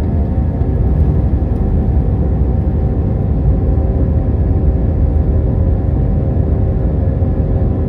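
Steady cabin noise inside an Airbus A319: a constant low engine and airflow rumble with a faint steady hum over it.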